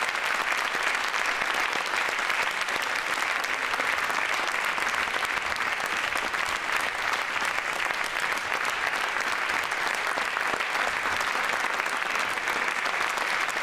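Crowd applause: many people clapping at once in a dense, steady patter with no gaps.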